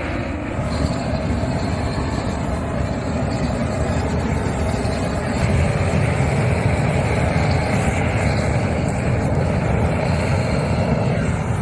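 Wood fire burning with a steady rushing noise as it singes the hair off a pig.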